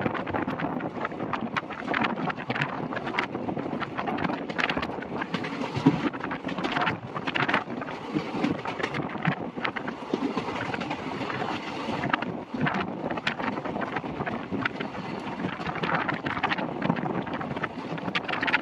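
Passenger train coach running at speed: steady rumble of the wheels on the rails with frequent sharp clicks and clatter, and wind buffeting the microphone at the open door.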